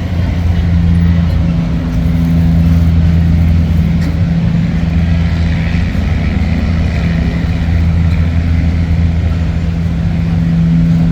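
Motor vehicle traffic with a steady low engine hum, as from a large vehicle idling close by.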